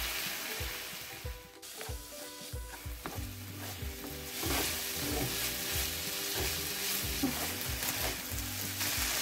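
Diced chicken, onion and spices frying in oil in a non-stick pan, sizzling while being stirred with a wooden spoon. The sizzle dips briefly about a second and a half in, then carries on.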